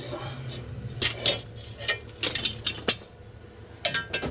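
Metal tools and leaf-spring hardware being handled, a string of sharp metallic clinks and clanks at irregular intervals over a steady low hum.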